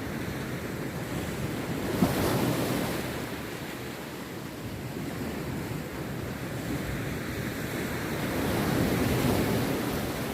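Rough sea surf: waves breaking and washing onto the beach, with a sharp crash about two seconds in and another swell of surf building near the end.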